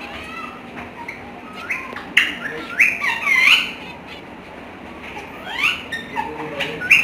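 Parrot squawking: a string of short, rising calls, the loudest and most frequent from about two to four seconds in, with a few more near the end.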